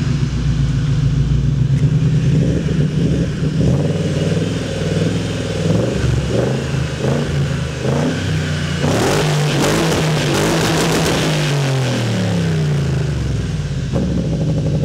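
BMW E30 race car's engine idling, then blipped several times in quick succession, followed by a longer, louder rev about nine seconds in that falls back to idle.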